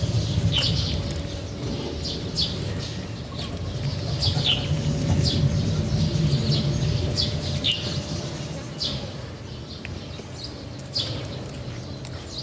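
Small birds chirping, with many short, high chirps scattered throughout, over a low rumble and a faint steady hum.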